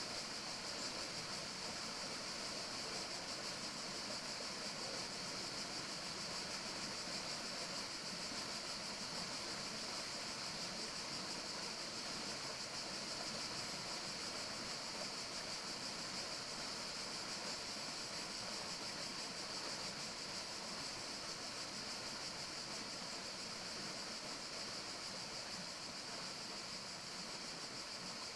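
Steady forest ambience: a continuous, even hiss with a bright high-pitched band, unchanging throughout.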